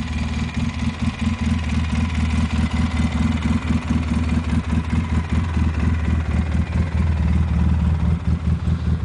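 Polaris 800 ATV engine running steadily, with a fast, even pulsing.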